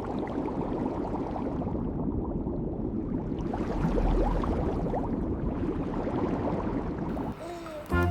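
Water sloshing and bubbling in a steady noisy rush, with small gurgles throughout, until the music comes back near the end.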